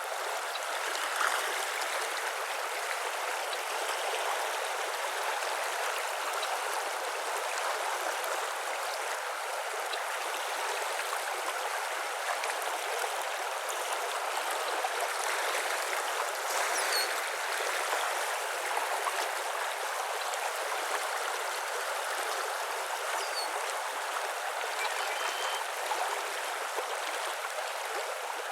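Steady rush of flowing water, like a stream, with a few faint high bird calls over it about halfway through and again near the end.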